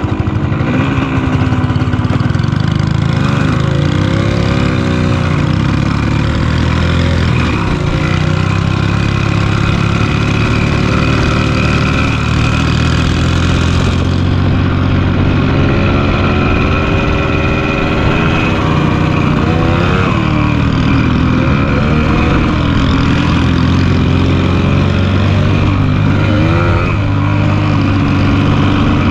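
1974 Yamaha DT100 Enduro's two-stroke single-cylinder engine running under way, its pitch rising and falling several times as it is revved and eased off.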